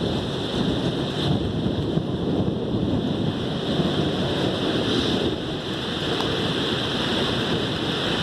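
Steady noise of heavy rain and wind in a thunderstorm, unbroken and even in level.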